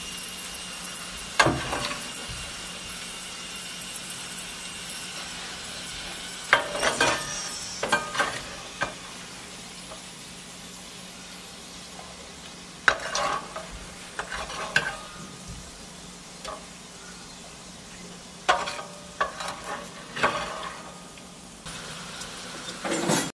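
Chunks of liver sizzling in hot oil in a pan, with several bursts of a metal spoon scraping and clinking against the pan as the pieces are scooped out.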